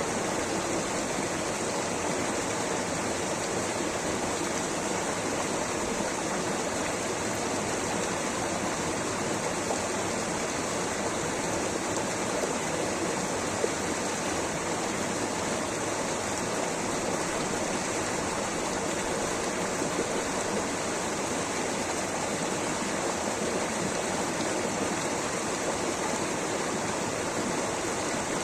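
Rushing water, a steady, unbroken rush with no change in level.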